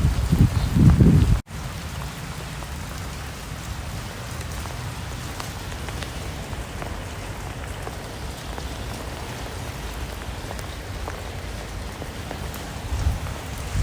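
Steady rain falling, an even patter with scattered drop ticks over a low rumble. The first second and a half is louder, with low thuds, and it cuts off suddenly; louder low thuds come back near the end.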